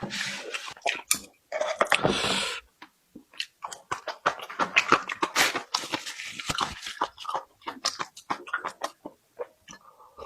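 Close-miked chewing and crunching of food, a dense run of short crunches and wet mouth smacks, with a longer noisy stretch about two seconds in.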